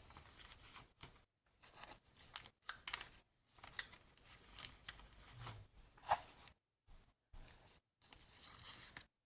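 Paper pages and inserts of a handmade junk journal rustling and crinkling as they are turned and handled, in short irregular rustles with a few light taps and brief silent gaps.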